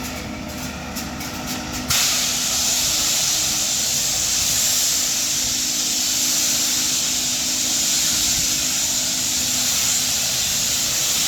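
A song cuts off about two seconds in, and a steady, even hiss of sea surf on the shore follows.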